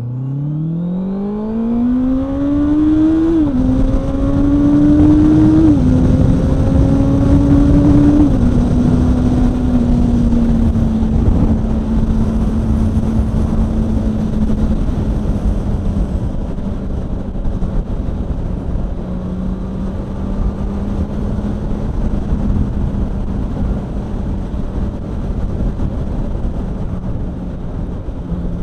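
Motorcycle accelerating hard through the gears, its engine note climbing and dropping sharply at three upshifts in the first eight seconds or so, then cruising at a steady pitch. Wind rush is heard throughout.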